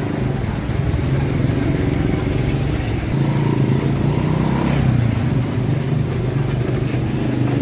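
Small motorcycle engine of a bentor (motorcycle rickshaw) running steadily while riding along, a continuous low hum.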